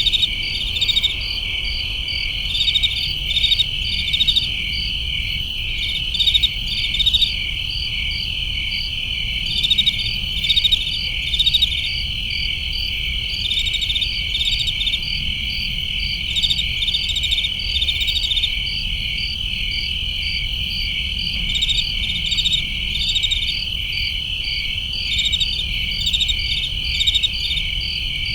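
Crickets chirping: a steady high trill with overlapping groups of faster pulsed chirps repeating every second or two, over a low steady background rumble.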